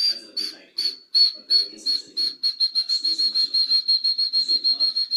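Cockatiel giving a run of short, repeated whistled chirps at one pitch, about two or three a second at first and speeding up to around six a second.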